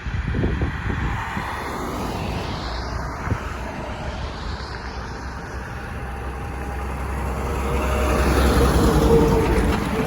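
Road traffic noise through an open car window: engines and tyres with a steady low rumble that swells louder about eight seconds in.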